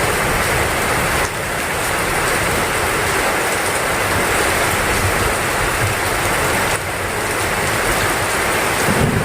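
Heavy rain falling steadily in a dense, even downpour, with brief slight dips in level about a second in and again near seven seconds.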